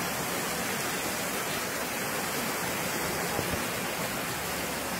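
Heavy rain pouring steadily onto paving and plants: an even, unbroken hiss.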